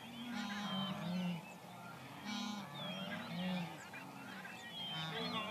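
Wild animals and birds calling: short low calls repeating about once a second, under many high chirps and whistling bird notes.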